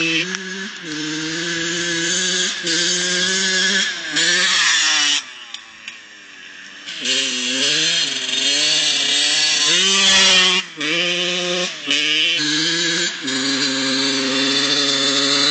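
Yamaha YZ80's 80cc two-stroke dirt-bike engine revving and dropping back again and again as it is ridden. It eases off for a couple of seconds about a third of the way in, then climbs through several rising and falling revs.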